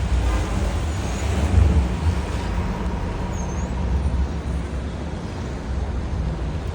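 City street traffic: a steady rumble of passing cars and buses.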